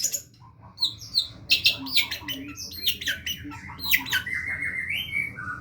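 Long-tailed shrike (cendet) singing vigorously: a rapid, varied run of sharp chirps, harsh notes and short gliding whistles, with a buzzy held phrase about four seconds in.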